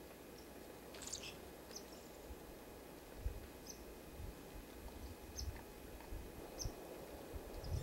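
Small birds at a winter feeder giving faint, short, high chirps every second or so, one of them a quick falling call about a second in, with a few soft low bumps.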